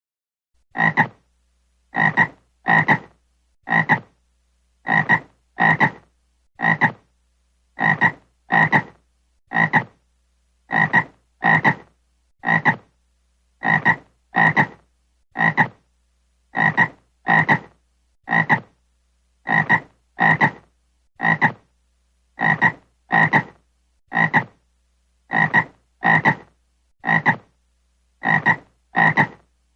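Frog croaking: short calls repeated about once a second, often two in quick succession, in an even, unchanging pattern.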